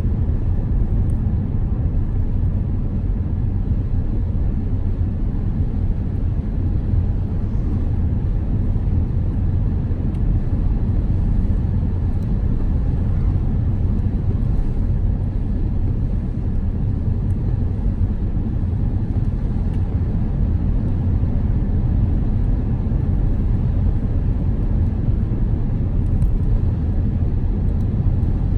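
Steady low road and engine rumble of a car driving, heard from inside the moving car.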